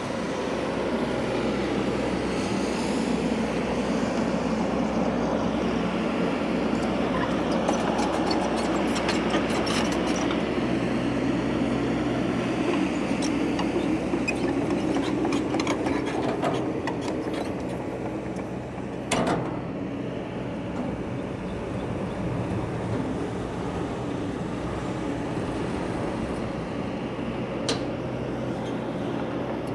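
Heavy equipment diesel engine running steadily, louder for the first half then easing off, with bursts of sharp snapping and cracking of wood as trees are broken up. There is one loud crack about two-thirds of the way through.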